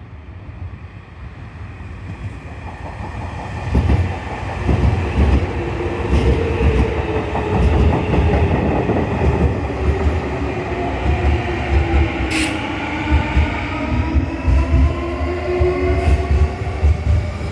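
Nankai Koya Line electric train running through the station, its wheels clattering over the rail joints. A motor whine with several tones slowly shifts in pitch. The train grows louder over the first few seconds, and a few sharp high clicks or squeals come later on.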